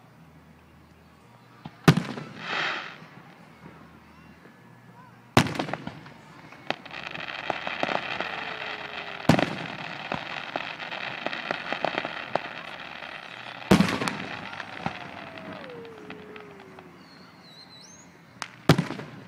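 Aerial fireworks shells bursting: five sharp booms about four seconds apart, with a long stretch of dense crackling in the middle.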